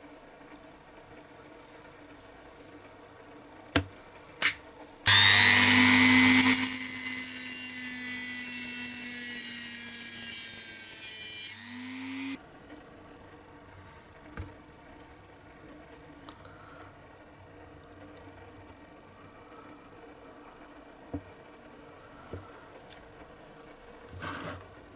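Small electric power tool running at a steady speed for about six seconds, then spinning down and stopping. A few light clicks from handling come before and after it.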